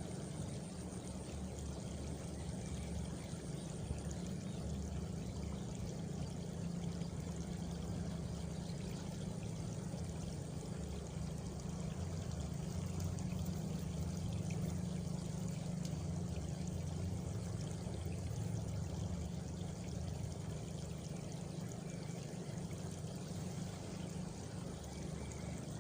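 Countryside ambience: a steady rush of water, with a faint high-pitched cricket trill in the first few seconds and again near the end.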